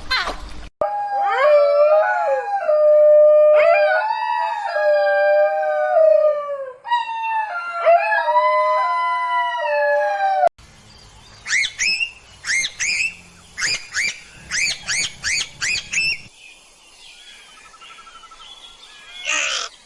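Several canids howling together, long gliding calls overlapping, until they cut off about ten seconds in. Then comes a run of short, sharp, falling bird chirps, about two a second, which fade to a quieter background near the end.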